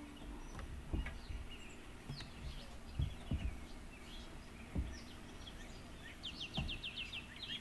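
Songbirds chirping and calling, with a fast trill of about nine notes near the end, over a few dull low thumps.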